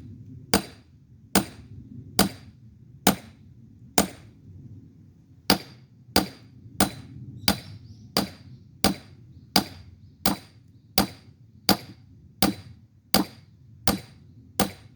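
A sledgehammer pounds a steel splitting wedge driven into a firewood log, one sharp ringing metal-on-metal strike about every 0.7 seconds, with a short pause about four seconds in. The log is starting to split apart.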